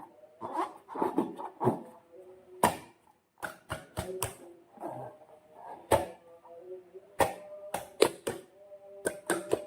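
Slime being squished and handled by hand: an irregular series of sharp snaps and pops, some in quick clusters, over faint squeaky, wavering tones.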